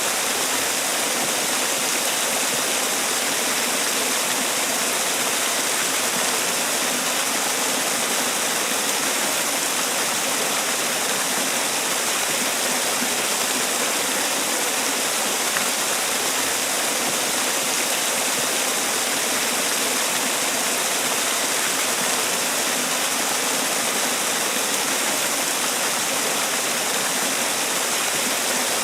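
Man-made waterfall: water falling and splashing in a steady, even rush.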